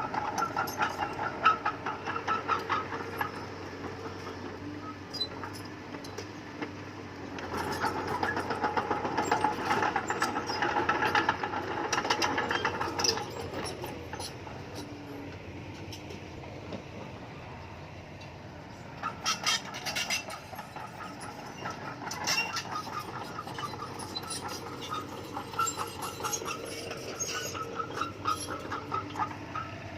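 Bulldozer's diesel engine running under load with rapid metallic clanking. The clanking grows busier and louder twice, about a quarter of the way in and again about two-thirds of the way in.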